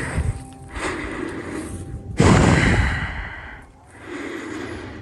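A person breathing heavily close to the microphone: a few loud exhalations, the biggest about two seconds in.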